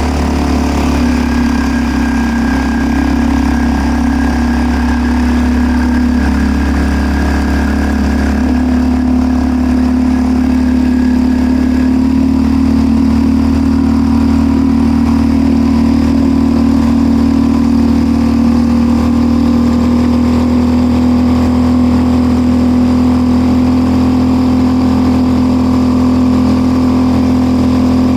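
Suzuki 2.5 hp four-stroke outboard motor running steadily on a canoe, its pitch stepping up slightly about eight seconds in.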